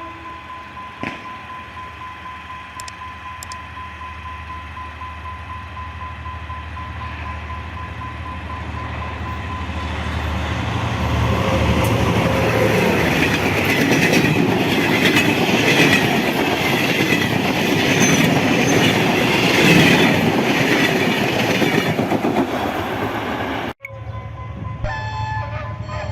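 A diesel train approaching and passing at speed: rumble and rail noise build steadily to a loud peak and hold for about ten seconds. Near the end the sound breaks off abruptly and a new passage of steady, stacked tones begins.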